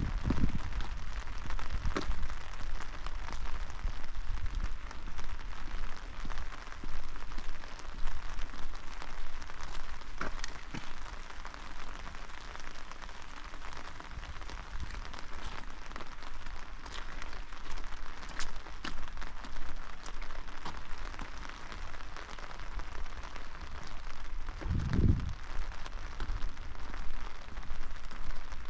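Steady rainfall, an even hiss with individual raindrops ticking sharply throughout. There is one brief low thump near the end.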